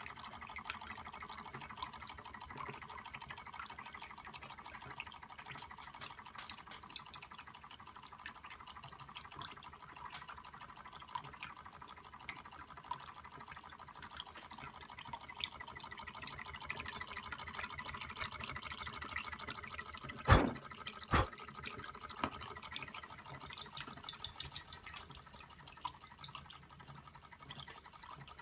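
Stirling hot-air engine running steadily, driving a small toy water pump that trickles and splashes water, with a fast, even ticking from the mechanism. Two sharp knocks come about twenty seconds in.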